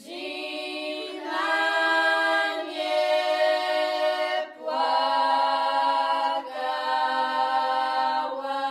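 Background music: a choir singing a cappella in slow, held chords that change every second or two.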